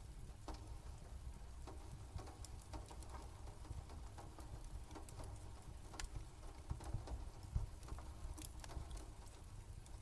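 Fire crackling: irregular sharp pops and snaps over a steady low rumble, with one louder pop a little past halfway.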